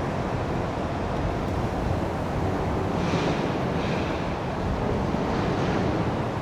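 Strong wind buffeting a small camera microphone: a steady low rumble with gusty hiss that swells briefly a few times.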